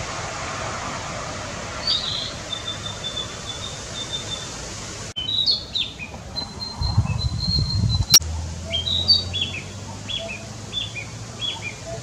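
Male narcissus flycatcher singing: a short note and a thin trill, then a varied phrase with a steady high trill, then a run of short down-slurred whistled notes. A sharp click comes about eight seconds in.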